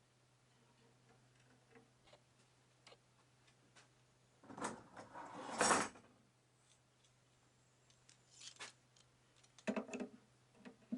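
Handling sounds in a workshop: scattered light clicks and knocks, with one louder scraping noise lasting about a second and a half a little before the middle, and a few quick knocks near the end.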